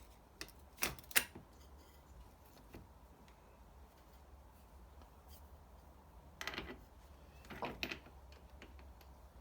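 Handling sounds of fitting a cutting disc onto an angle grinder: a few sharp metallic clicks within the first second or so, then a lull. Two short scraping, rustling handling noises come near the end.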